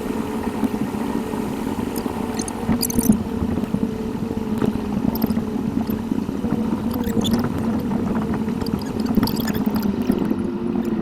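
Car driving noise from a dashcam, sped up to eight times normal speed: engine and road noise turned into a fast, gurgling drone whose pitch wavers, with scattered light ticks.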